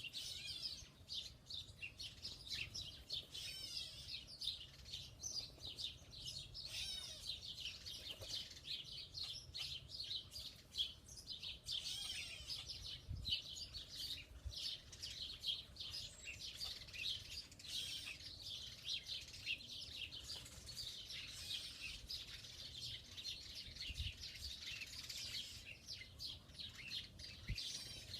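Many small birds chirping and twittering at once, a dense, continuous chorus of quick high chirps.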